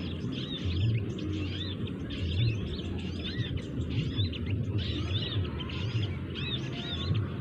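A busy chorus of small birds chirping, many short arched chirps following one another closely, over a low rumble.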